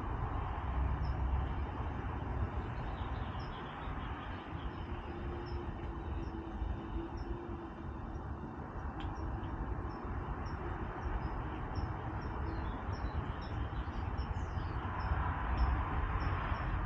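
Short high-pitched chirps from a small animal, repeated at an even pace of about two a second, over a steady low outdoor rumble.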